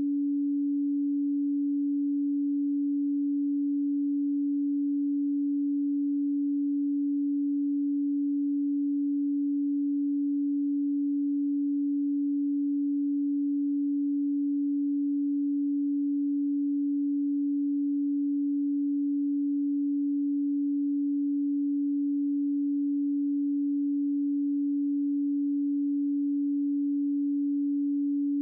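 A pure sine tone at 285 Hz, held steady and unchanging with no other sound.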